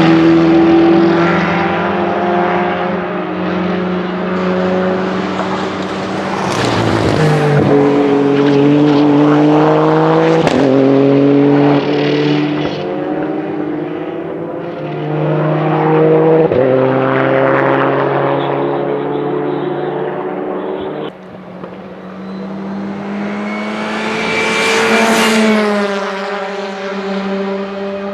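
Rally cars' engines working hard through the circuit, rising in pitch as they accelerate, with several sharp breaks where the pitch jumps down at gear changes. Near the end a car goes past, its engine note rising then falling.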